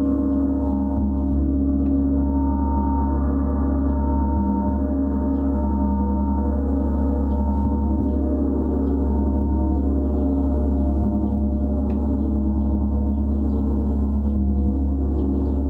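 Gong played continuously, a steady, even wash of many overlapping low tones with no separate strikes standing out.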